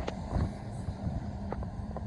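Freight train behind Class 66 locomotive 66546 rolling past: a steady low rumble with occasional sharp clicks of wheels over rail joints.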